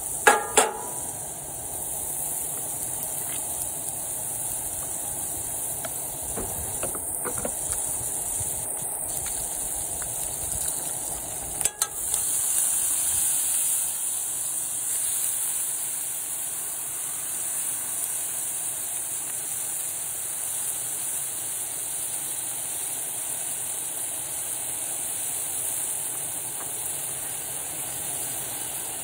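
Food sizzling in a cast iron skillet on a Coleman camp stove, a steady hiss throughout. There are a few sharp knocks right at the start, and about twelve seconds in the sizzling briefly gets louder as prawns, clams and mussels go into the hot pan.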